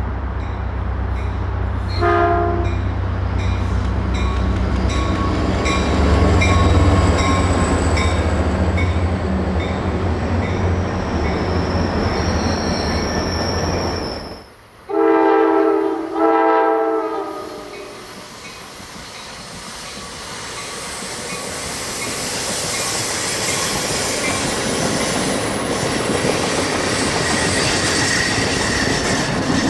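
F40PH diesel passenger trains: a locomotive's engine drones deep and steady under wheel and rail noise, with a short horn toot about two seconds in. After a brief drop-out, two horn blasts sound halfway through, and the rumble and clatter of a passing train build up to the end.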